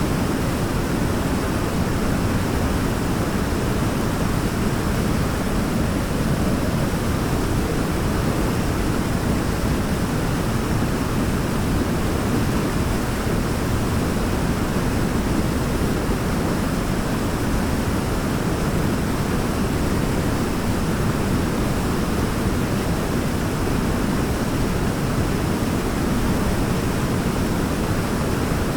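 Waterfall rushing with a steady, unbroken roar, deepest in the low range.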